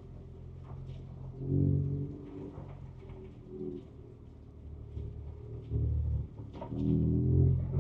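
The Ford Ranger Raptor's 3.0-litre twin-turbo V6, heard from inside the cab, swelling in several short bursts of throttle over a low running rumble, with a few light knocks.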